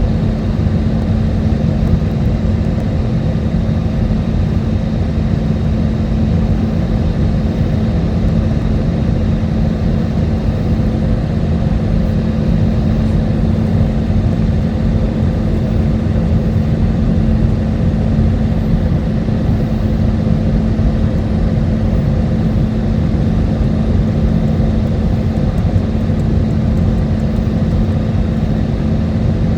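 Steady cabin roar of an Airbus A320neo airliner on approach: engine and airflow noise heard inside the cabin, with a steady low hum running through it.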